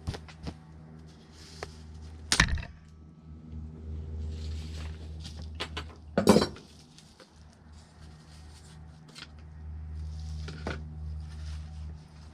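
Plastic pieces of a Dodge Ram heater box being handled and worked apart: scattered clicks and knocks, with two loud sharp knocks about two and six seconds in, over a steady low hum.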